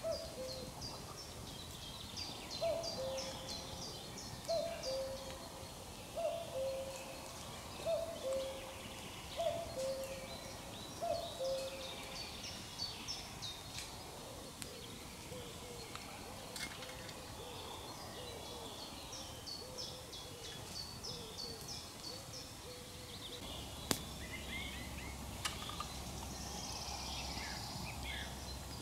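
Birds calling: a low two-note call, the second note lower, repeated about every one and a half to two seconds, strong at first and fading after about twelve seconds, over steady high chirping from small birds.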